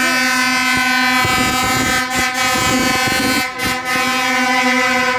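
A vehicle horn held in one long, steady, unbroken blast that cuts off suddenly at the end.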